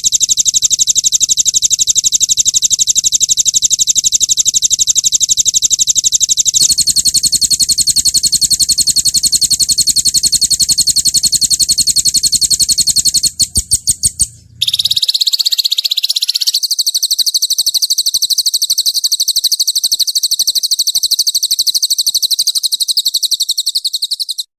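Small songbird's recorded song: long, very fast high-pitched trills ('roll tembak' phrases), cut together so that the trill changes abruptly several times, with a few separate sharp notes a little past halfway.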